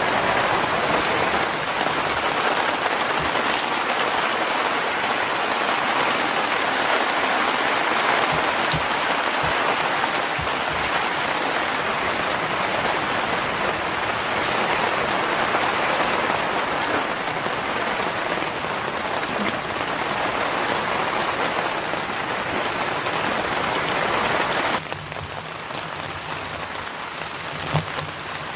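Steady heavy rain pattering on a surface, which drops abruptly to a softer rain sound about 25 seconds in.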